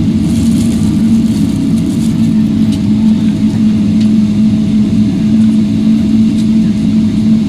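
Steady low rumble of a moving vehicle heard from inside, with a constant low hum and a fainter higher tone running through it.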